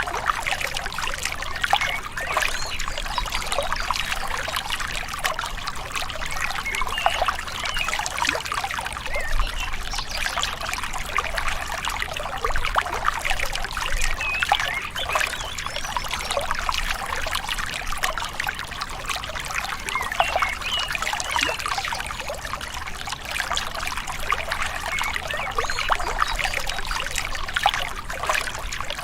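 Gentle river water trickling and babbling over stones, a steady burble of small splashes.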